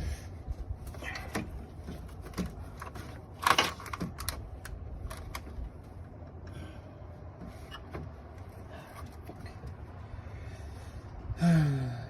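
Scattered clicks, taps and knocks of hand work on plastic retaining clips and tools around the radiator fan assembly, with one sharper knock about a third of the way in. Near the end, a short voiced groan falling in pitch.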